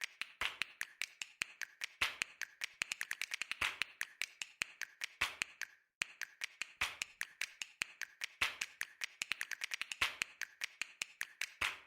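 A rapid, uneven run of sharp, dry clicks in two stretches, split by a brief gap about six seconds in.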